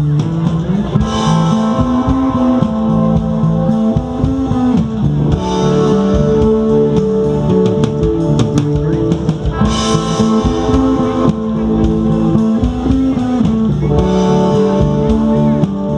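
A live rock band playing an instrumental passage: guitars holding chords over a drum kit.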